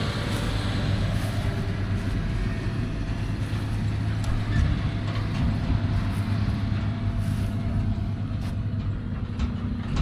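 Heavy diesel farm machinery running steadily, a low even engine hum.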